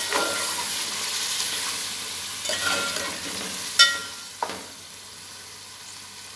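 Chicken pieces frying in oil with freshly added whisked yogurt, sizzling steadily while a metal spoon stirs and scrapes against the metal pot, with a sharp clink a little under four seconds in and another shortly after. The sizzle carries on more quietly in the last couple of seconds.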